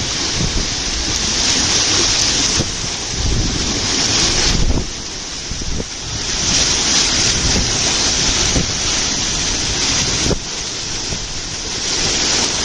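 Water rushing and churning as a large whirlpool sucks it down, a low rumbling noise that swells and eases in long surges, mixed with wind buffeting the microphone.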